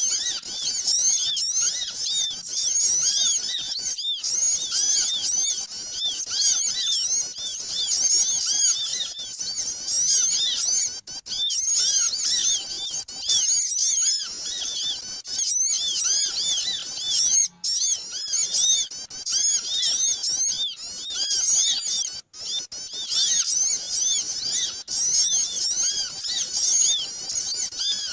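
Noisy chorus of many small birds chirping and twittering at once, high thin calls overlapping almost without pause, with a few brief breaks. It is a bird-lure call recording (suara pikat) played to draw small birds in.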